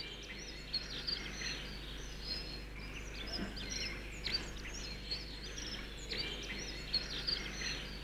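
Small birds chirping, a steady run of short, high calls and quick pitch sweeps from several birds at once.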